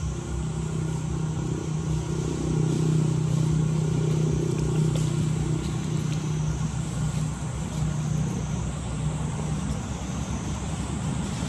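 A motor engine running steadily, a low even hum that swells a few seconds in and eases off about two-thirds of the way through.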